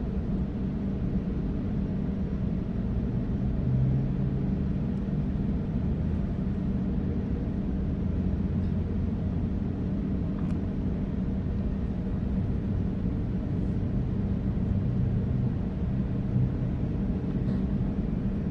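Sydney Trains Waratah electric train running at speed, heard from inside the carriage: a steady rumble of wheels on track with a low, even hum from the train's drive.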